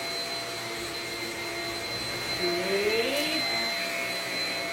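Shark Rocket Zero-M stick vacuum running steadily with a high-pitched motor whine and the rush of suction, pushed back and forth over a carpet rug in a pickup test.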